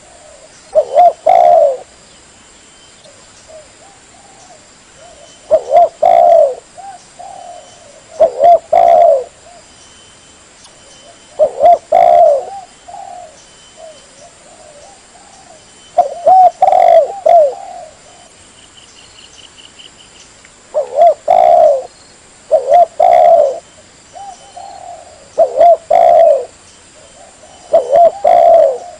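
Spotted dove (tekukur) cooing: a phrase of a few quick coo notes repeated about nine times, every two to five seconds. It is a lure call for drawing doves in. Faint high chirps from small birds sound between the phrases.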